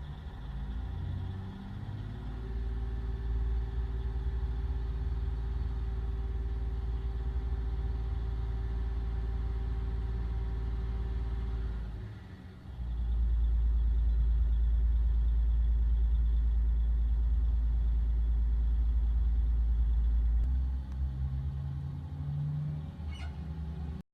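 Heavy mining dump truck's diesel engine running with a deep, steady rumble. It dips briefly about twelve seconds in, comes back louder, then eases and changes near the end.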